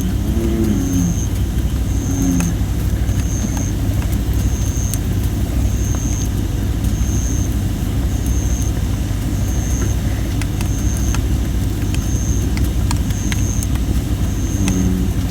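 Campfire of thin, not fully dried red robin (Photinia) wood burning over a steady low rumble, with scattered sharp crackles and pops. A bullfrog calls at the start and again near the end, and a high chirp repeats evenly about every two-thirds of a second.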